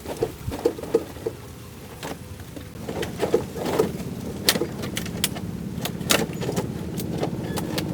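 Sharp metallic clicks and knocks, joined about two and a half seconds in by a steady motor hum that keeps running.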